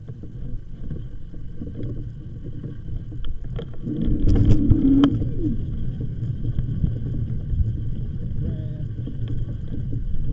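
Wind rumbling on the microphone during an e-bike ride, with faint steady high tones over it; the rumble swells loudest about four to five seconds in.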